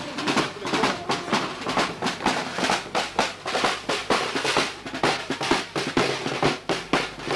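Marching drums beating a steady march rhythm for a ceremonial march past, with quick, even snare-drum strokes.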